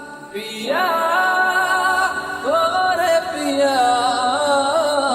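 A song: a solo voice sings a slow, ornamented melody in long, wavering held notes, starting a little under a second in.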